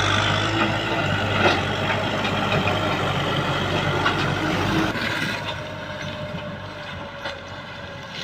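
Small tractor's engine running steadily while ploughing. It drops noticeably quieter about five seconds in.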